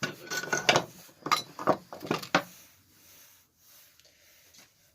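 Small metal tools and engine parts clinking and clattering as they are handled and set down on a workbench, a quick run of sharp knocks over the first two and a half seconds, then only faint handling.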